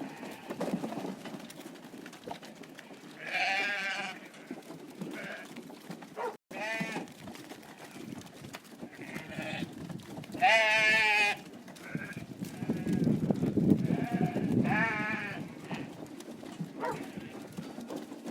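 Sheep bleating: about four wavering bleats a few seconds apart, the loudest a little past halfway.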